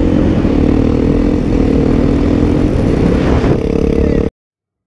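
Vehicle engine running at a fairly steady pitch over a heavy low rumble, cut off suddenly about four seconds in.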